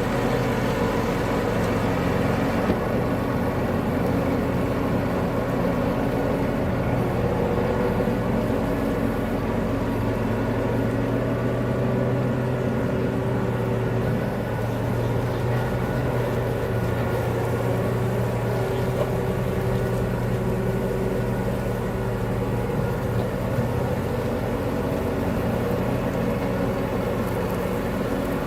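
Case IH Magnum tractor's diesel engine running steadily under a constant drone, with no change in speed.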